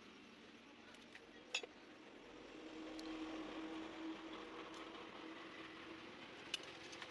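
A few light metallic clicks and clinks, like hand tools touching engine parts, over a steady background hum that swells about two seconds in and eases off near the end.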